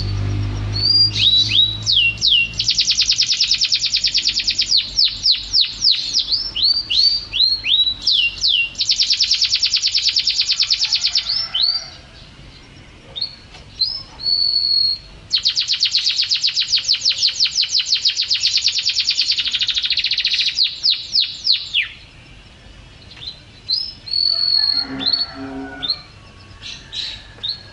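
White-rumped shama singing: three long, rapid trills of repeated high notes, broken up by quick downward-slurred whistles and clear high whistled notes, with short quieter pauses between phrases.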